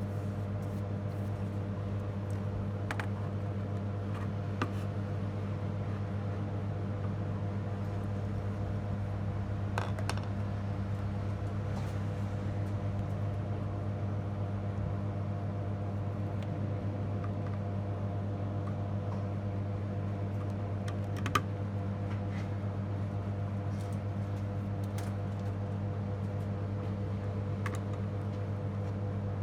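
Steady low electrical hum, with scattered light clicks and taps on top; two slightly louder clicks come about a third and two-thirds of the way through.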